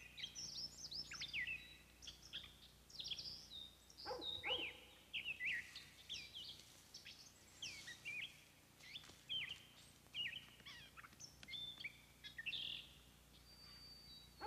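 Songbirds chirping and singing: many short, quick rising and falling calls overlapping one another throughout.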